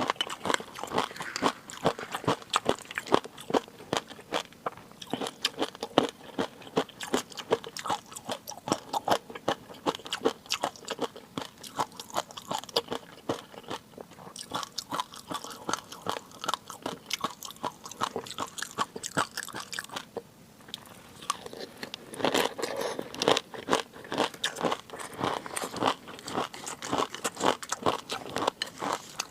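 Close-miked chewing and biting of food: a dense run of rapid small crunches and crackles, easing off for a couple of seconds about two-thirds of the way through.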